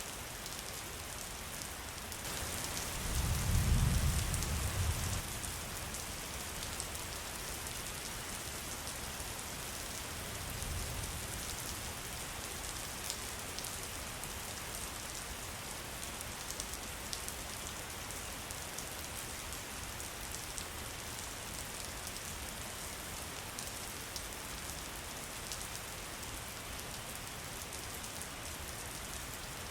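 Steady rain falling, an even hiss with many small drop ticks. A low rumble swells about three seconds in and lasts a couple of seconds, with a weaker one about ten seconds in.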